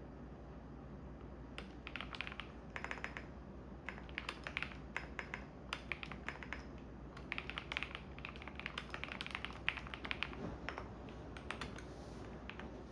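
Computer keyboard typing in runs of quick keystrokes with short pauses, over the steady low hum of a washing machine running.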